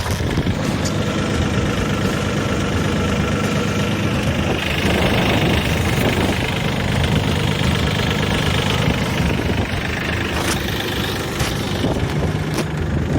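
EG220 compact tractor's diesel engine running during an operating check, its note getting busier and louder in the upper range for a few seconds in the middle before settling back.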